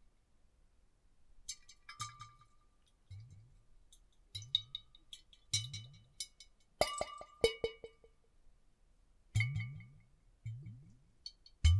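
Water sloshing inside glass bottles, shaken in about eight separate strokes. Each stroke carries a glassy clink with a brief ringing tone.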